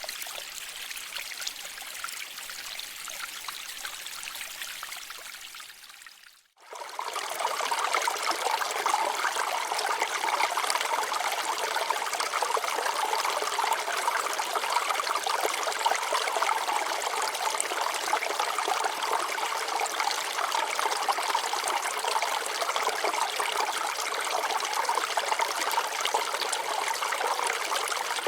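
Water flowing and trickling over rocks in a shallow stream. It fades out briefly about six seconds in, then comes back louder and steady.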